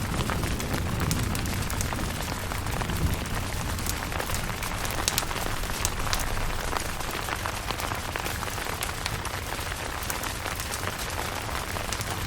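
Steady rain pattering on a tent, with many small drop ticks over a low, steady rumble.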